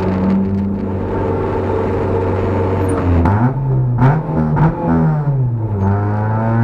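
Fiat Cinquecento Sporting's swapped 1.2 16-valve FIRE four-cylinder with a straight-through stainless exhaust, heard from inside the stripped cabin, running at low revs. About three seconds in the revs rise, dip around a gear change, then climb again.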